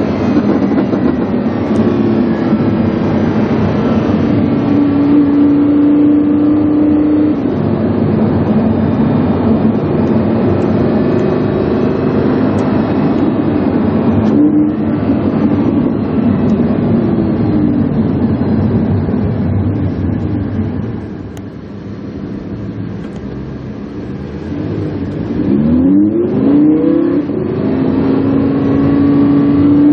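Lamborghini Huracán's V10 breathing through a PowerCraft aftermarket exhaust, heard on board while driving: the engine note holds and shifts with speed, eases off about two-thirds through, then climbs steeply in pitch in a quick rev before settling back to a steady note.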